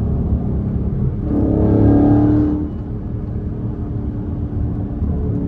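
Straight-piped Dodge Charger Scat Pack's 6.4-litre 392 HEMI V8 droning while driving. About a second in, the exhaust note swells louder for a second or so, then drops back to a steady drone.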